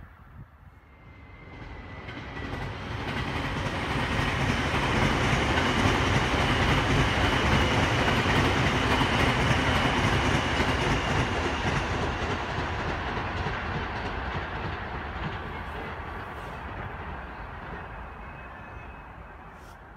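Electric commuter train with stainless-steel cars passing: its running noise on the rails swells over the first few seconds, holds through the middle and slowly fades away.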